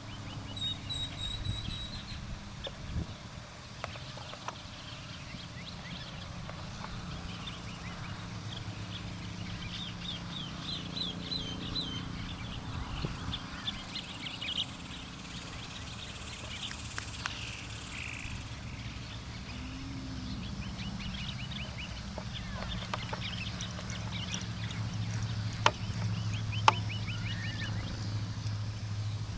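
Birds calling, with runs of quick, high, repeated chirps, over a low steady hum; a couple of sharp knocks near the end.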